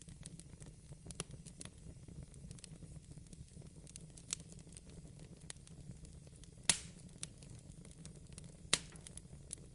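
Fireplace crackling: scattered small clicks and pops, with two sharper pops about two-thirds of the way through and near the end, over a low steady hum.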